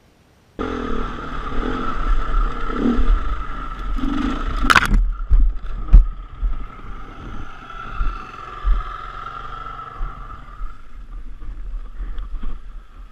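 Dirt bike running on rocky ground, with knocks and a sharp clack around the middle. The sound cuts in abruptly about half a second in.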